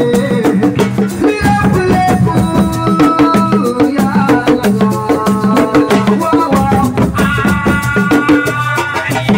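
Assiko band music: drums and rattles keep a steady, busy beat under a melody line.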